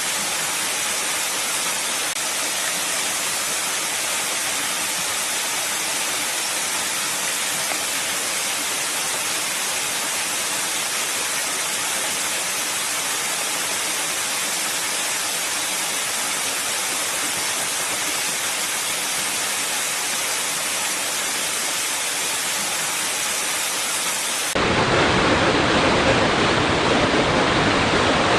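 Water rushing steadily over rocks, a bright, even hiss. About 24 seconds in it cuts abruptly to a louder, deeper rush of water.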